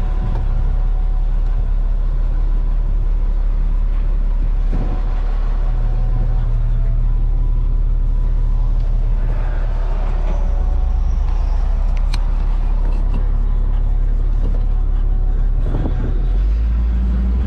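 Tow truck's engine running as the truck drives off, a steady low drone whose pitch shifts a few times, with a few brief clicks.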